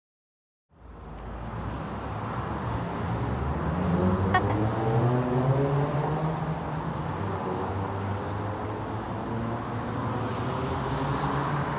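A car driving, with a steady engine and road noise that cut in abruptly just under a second in; the engine note shifts up and down for a few seconds as the car changes speed.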